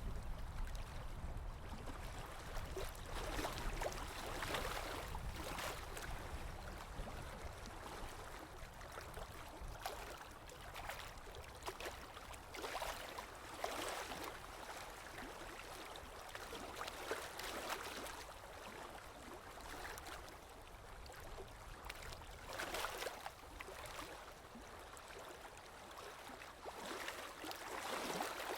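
Water splashing and gurgling steadily, swelling louder every few seconds and easing again.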